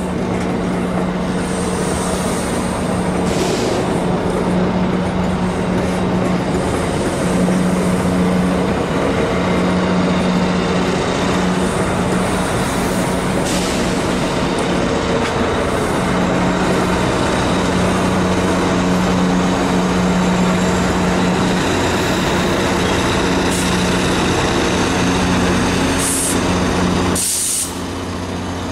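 GO Transit bilevel passenger train rolling slowly past, with steady wheel-on-rail rumble and a constant low drone from its MP40 diesel locomotive. A few short air hisses come through, the last two near the end.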